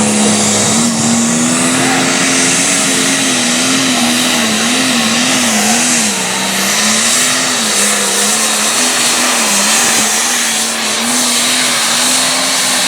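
Turbocharged diesel engine of a light limited pro stock pulling tractor running at full throttle under load down the track. The engine pitch steps up about a second in, then wavers up and down as the revs rise and fall.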